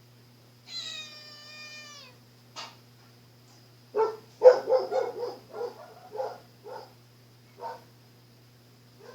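A cat meowing: one long, drawn-out meow that sags in pitch at its end, starting about a second in. Then comes a louder run of short, rough sounds, several a second, from about four seconds in to nearly seven, and one more near the end.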